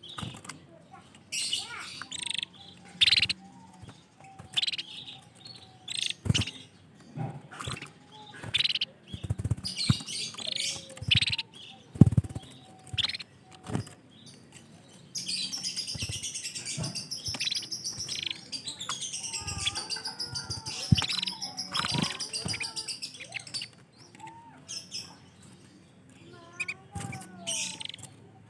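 Canaries chirping in short high calls with scattered sharp knocks. About halfway, a canary breaks into a continuous high trilling song lasting around eight seconds, and then the short chirps resume.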